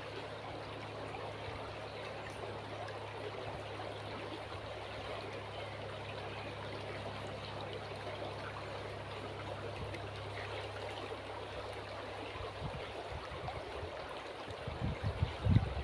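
River water flowing steadily with a gentle burble, over a faint steady low hum. About a second before the end comes a run of low rumbling thumps, louder than the water.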